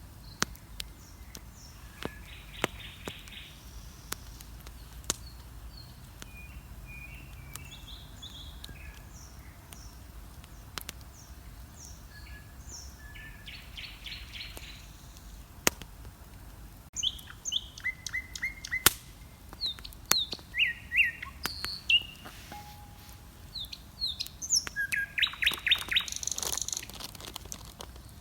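Birds chirping and singing in short whistled phrases, sparse at first and much busier in the second half, over the scattered sharp pops and crackle of a wood bonfire.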